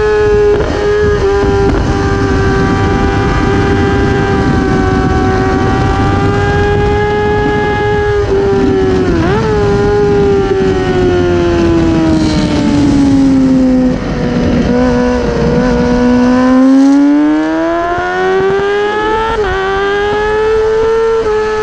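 Onboard sound of a track motorcycle's engine held at high revs, with a rush of wind noise. About nine seconds in the note dips and jumps back in a quick gearshift. Around fourteen seconds the revs fall steadily to a low note as the bike slows, the wind rush fades, and the revs climb again near the end.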